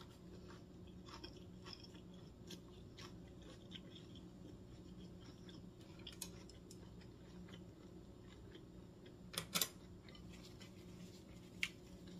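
Faint, close-miked chewing of a mouthful of lettuce-wrapped rice, with small crunches and wet clicks, over a faint steady hum. A louder double click comes about two thirds of the way through.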